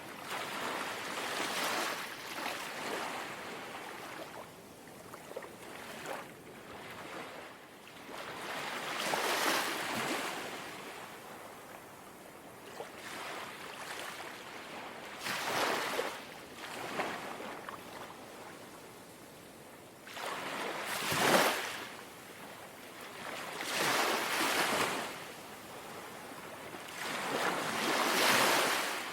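Small, gentle sea waves lapping and washing in, a soft surge of water every four to six seconds, about six in all, the sharpest one about two-thirds of the way through.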